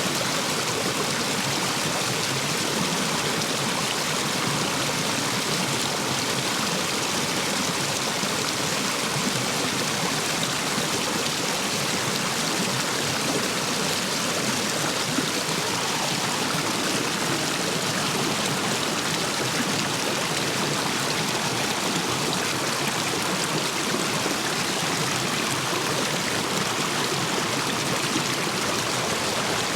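Stream water rushing steadily over and between stepping stones, swollen after heavy rain.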